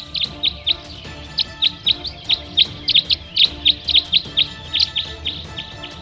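A bird calling in a rapid series of short, high chirps, each falling in pitch, about five a second, stopping just before the end. Soft background music plays underneath.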